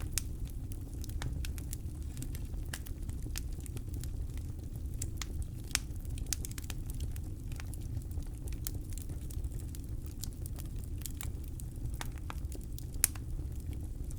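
Campfire burning with a steady low rumble and irregular sharp crackles and pops, one louder pop near the end.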